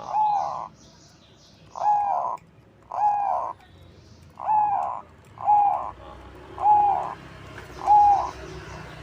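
Crossbred perkutut (zebra dove) cooing: seven clear, mellow notes of the same pitch, roughly one a second. Faint high chirps of another small bird run under the first three notes.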